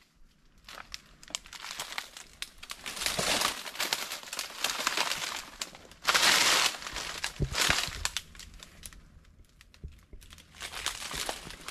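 Leaves and brush rustling and crackling in irregular bursts as a person pushes through forest undergrowth, with the loudest rustle about six seconds in.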